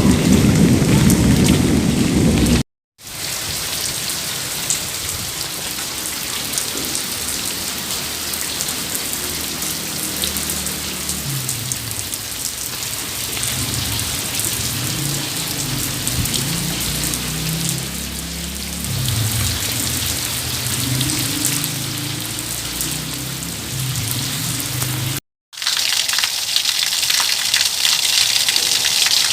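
Steady rain falling, with low rumbles of thunder underneath. The sound cuts out for a moment twice, about three seconds in and near the end, and after the second break a brighter, hissier rain begins.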